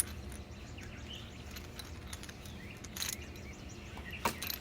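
A few sharp clicks and knocks of the pressure washer's hose and fittings being handled as the hose is pulled from its storage under the handle, over a steady faint outdoor background with a brief bird chirp about a second in.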